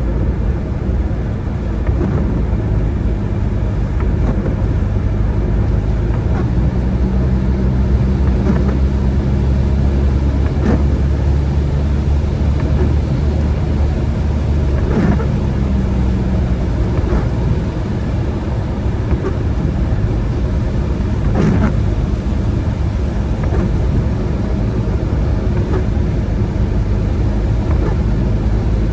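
Car driving on the road: a steady low rumble of tyres and engine, with an engine hum that rises in the middle and fades again, and a few brief knocks.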